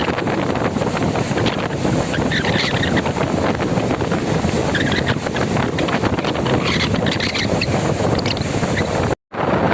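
Cyclone wind buffeting the microphone in a loud, steady rush of noise, cutting out briefly near the end.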